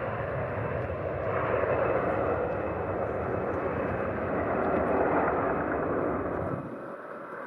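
Jet airliner engine noise, a steady broad rush with a low rumble. The low rumble cuts off abruptly near the end.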